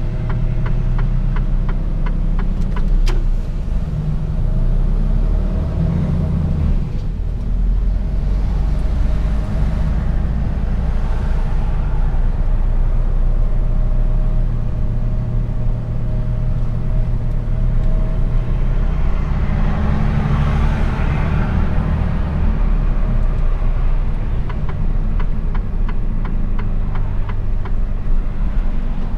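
Mercedes-Benz Actros truck's diesel engine and road noise heard inside the cab while driving, a steady low rumble. Light regular ticking comes in near the start and again near the end.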